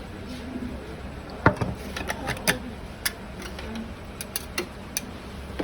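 Scattered sharp clicks and knocks, about eight, irregularly spaced and loudest about a second and a half in, over a steady low background hum.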